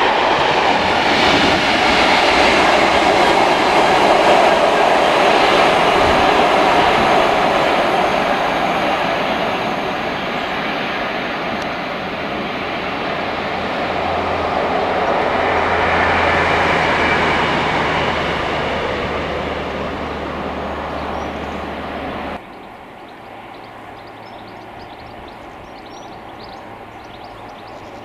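A train running past on the rails: a loud, dense rumble of wheels and rolling stock, with a steady low hum coming in during the later part. About six seconds before the end the sound cuts off abruptly to a much quieter steady background.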